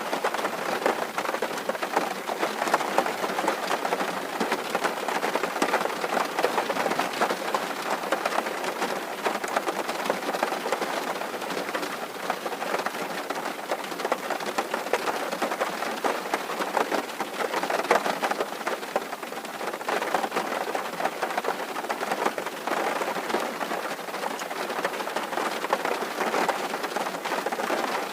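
Steady rain drumming on a tin roof: a dense, even patter of countless small drop hits.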